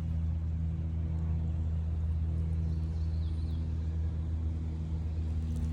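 A machine running steadily with a low, even hum, its pitch unchanging throughout.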